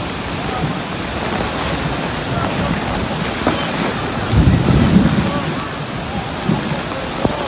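Heavy downpour, wind-driven rain hissing steadily on the street and umbrellas, with a louder low rumble about halfway through.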